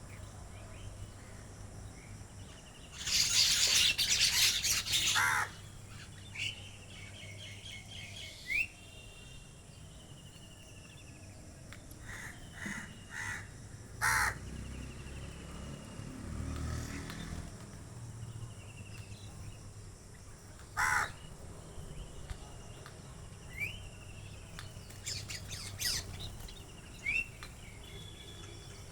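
Several birds calling: a loud run of harsh calls about three seconds in and single harsh calls now and then after, with short chirps and thin rising whistles between.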